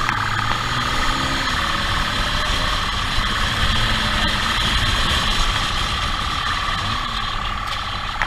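Motor vehicle running with road noise, a steady high-pitched whine over it.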